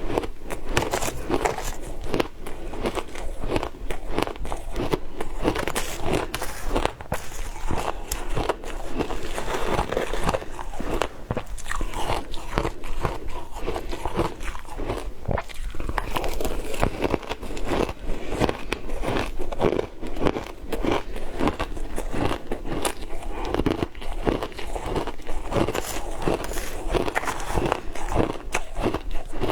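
Frozen matcha ice being bitten and crunched between the teeth, a dense unbroken run of sharp crunches, many each second.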